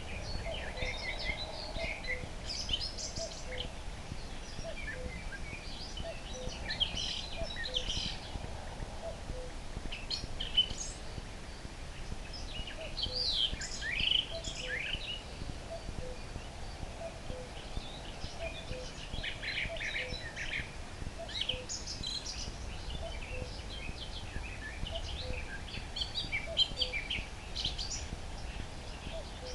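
Common nightingale singing varied phrases of whistles and trills, with a common cuckoo repeating its low two-note cu-coo call steadily underneath.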